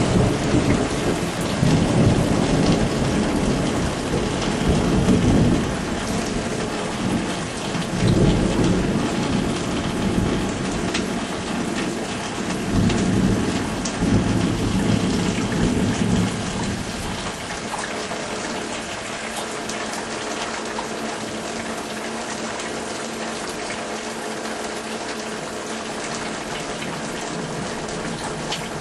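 Thunder rolling and rumbling in several swells through steady rain during a thunderstorm, dying away about two-thirds of the way in to leave the rain alone.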